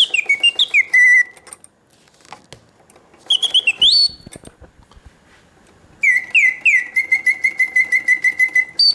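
Karl Griesbaum mechanical singing bird cage, its bellows-driven whistle singing short phrases of falling whistled glides and a fast warble, set in pause mode: the song stops for a second or two between phrases, with faint ticks from the mechanism in the gaps.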